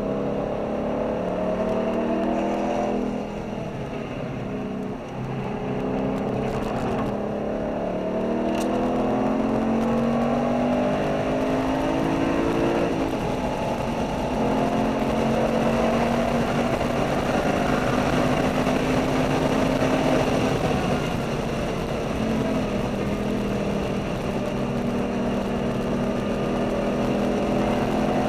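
A V8 car engine under hard acceleration, heard from inside the cabin: its pitch climbs through several gears with short dips at the shifts, then holds at high revs along the straight.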